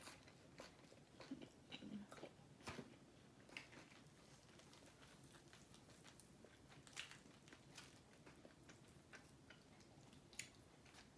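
Faint close-up chewing and crunching of crispy whole fried chicken, with scattered sharp crunches mostly in the first few seconds, then fingers tearing the fried chicken apart.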